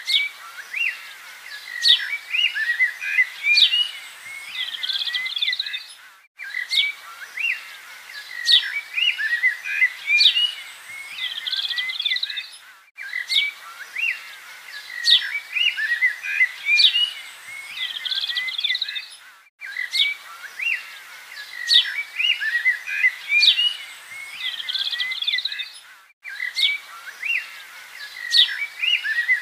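Small birds chirping and twittering in a busy chorus of short, quick calls and trills. The same passage of about six and a half seconds repeats over and over, with a brief drop-out between repeats: a looped recording.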